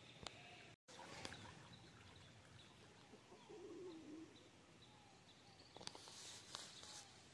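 Faint outdoor ambience with distant birds chirping, a few soft clicks, and a brief rustle near the end.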